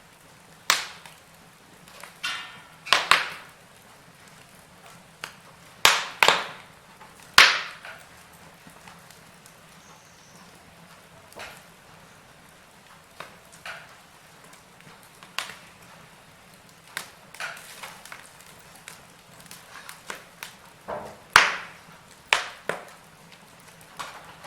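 Wood fire in a fireplace crackling: irregular sharp pops and snaps over a low, steady hiss, with the loudest pops about seven seconds in and again near the end.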